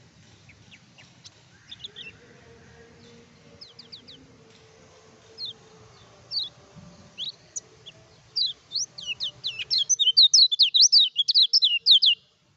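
Kecial kuning (yellow white-eye) singing: scattered short, high chirps at first, then about eight seconds in it breaks into a rapid, louder run of sharp chirps before stopping abruptly.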